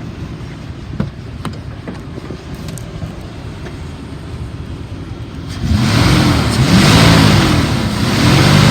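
A 2002 Dodge Ram 3500's 5.9-litre gasoline V8 idling, then revved up several times from about two-thirds of the way through, the pitch rising and falling with each rev. The seller says it has a slight misfire at idle but revs up well.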